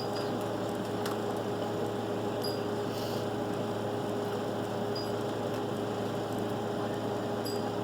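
Steady hum of a fan motor, with a held mid-pitched tone over a low drone and a few faint high ticks.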